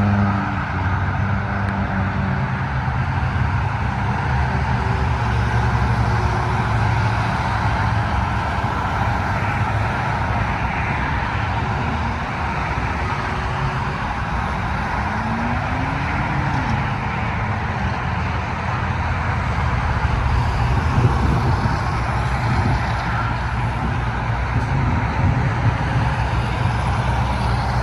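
Steady road traffic noise: engines humming and tyres on a highway, with one vehicle's pitch briefly rising about halfway through.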